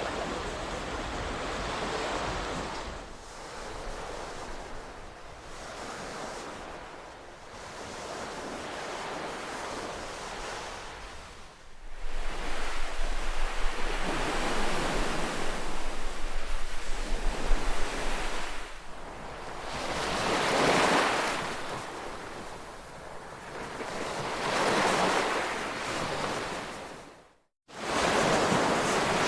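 Ocean waves washing in, the surf swelling and fading every four to five seconds. The sound gets suddenly louder about twelve seconds in, and near the end it cuts out almost to silence for a moment before coming back.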